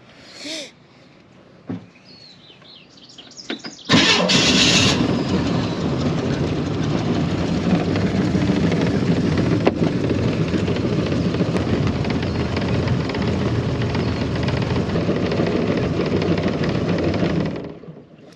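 A boat's outboard motor running under way: a loud, steady engine and water noise that comes in suddenly about four seconds in and stops near the end. Before it, two brief soft knocks.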